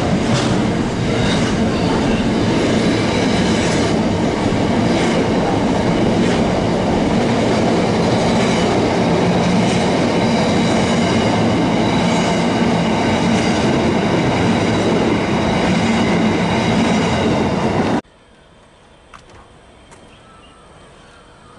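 Wagons of an intermodal container freight train rolling past, a steady loud rumble with the wheels clattering over rail joints and points and a thin high metallic ringing over it. About 18 s in the sound cuts off suddenly to faint background.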